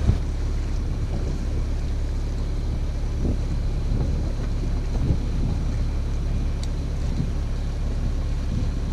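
Auxiliary engine of a Cabo Rico 38 sailboat running steadily under way, a constant low drone, with wind buffeting the microphone.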